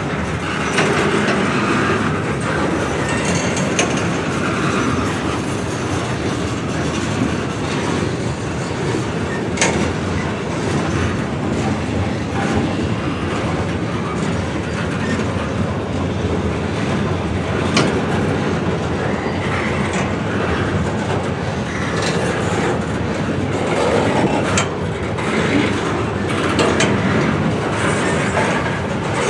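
Freight cars of a mixed manifest train rolling past on steel rails: a steady rumble of wheels on track with occasional sharp clicks.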